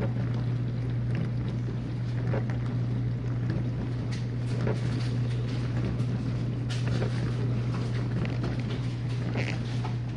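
Whirlpool dishwasher running mid-cycle: a steady low motor hum with water spraying inside the tub and scattered light taps.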